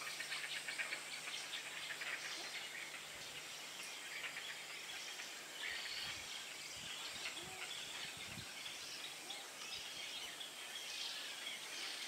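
Faint, scattered bird chirping over a steady outdoor background hiss.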